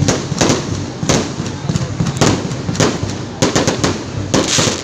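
Fireworks going off one after another: a string of sharp bangs about two a second, some coming in quick clusters of pops.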